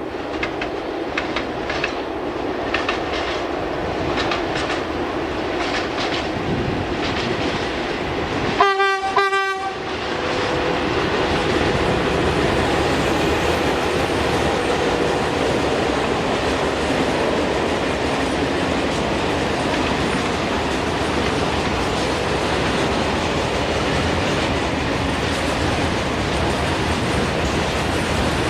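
Train passing on the line: wheels clicking over the rail joints, a short locomotive horn blast about nine seconds in, then a steady rumble of the train going by.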